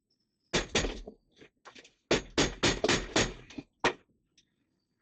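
Hammer blows on wood: two strikes, then a quick run of about seven, then a single strike, as rotten plywood seating is knocked apart.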